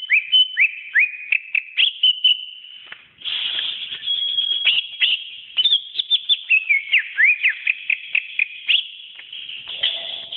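Cucak ijo (green leafbird) singing a fast, continuous run of clear whistled notes, many of them quick upward sweeps, with a brief lull about three seconds in.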